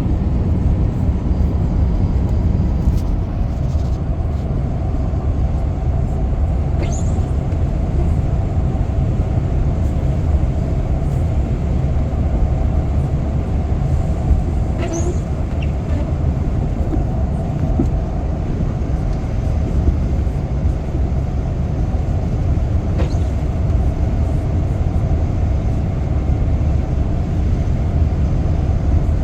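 Steady road noise of a vehicle driving: a low, even rumble of engine and tyres on a wet road, with a few faint clicks.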